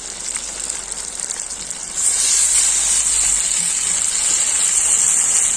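Covered kazan of chicken and vegetables over a campfire, hissing and sizzling as the freshly added water comes to the boil under the lid. The hiss steps up louder about two seconds in and then holds steady.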